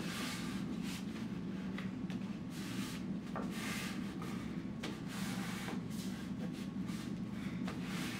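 Paper rustling and rubbing in repeated strokes as hands smooth and press a glued paper collage onto cardstock, over a steady low hum.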